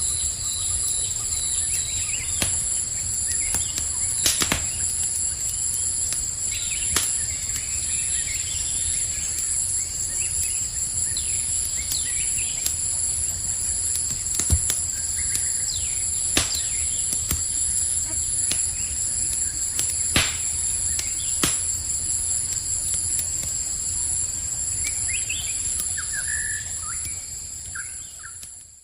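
Campfire crackling, with sharp pops every second or two, over a steady high-pitched chirring of crickets. A few bird chirps come in near the end, and the whole sound fades down just before it ends.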